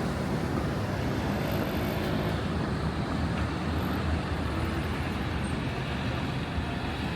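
Steady city street traffic noise: a continuous low rumble of passing vehicles, with no single event standing out.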